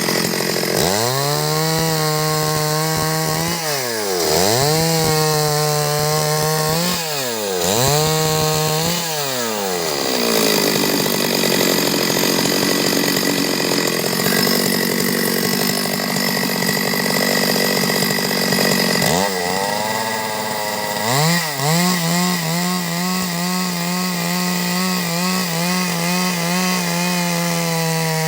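Stihl MS 382 two-stroke chainsaw running at high revs while ripping a log into boards. The engine note dips and climbs back three times in the first ten seconds, turns rougher and loses its steady pitch for several seconds, then rises and holds high again before a final dip near the end.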